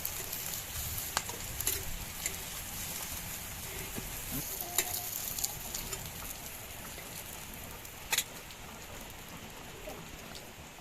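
Chicken curry sizzling in a cooking pot, with a few sharp clicks of a spoon against the pot. The loudest click comes about eight seconds in.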